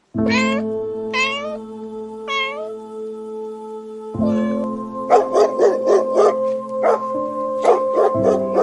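A domestic cat meowing three times, each meow rising then falling, over soft background music with held notes. About four seconds in, a dog starts barking in a quick run of short barks.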